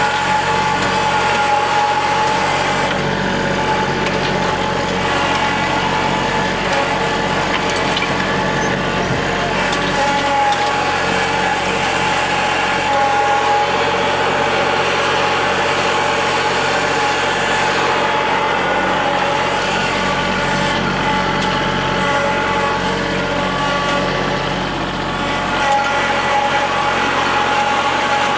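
Kubota L3901 compact tractor's three-cylinder diesel engine running steadily while the tractor spreads and levels piles of asphalt millings.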